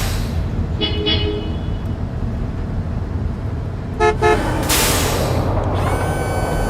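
Truck horn tooting twice about a second in and twice again about four seconds in, over a steady low engine rumble. A whoosh follows the second pair of toots, and a steady high tone sounds near the end.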